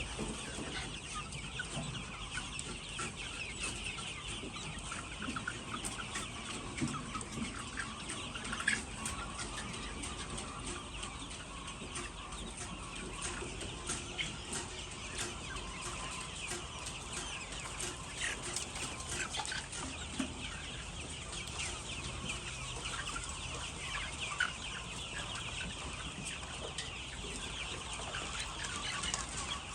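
A large flock of laying hens clucking in a steady, dense chorus of overlapping calls, with scattered short clicks.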